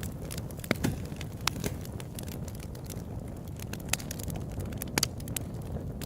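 Open-air wood campfire burning with a steady low rumble and irregular sharp crackles and pops, a few louder snaps among them.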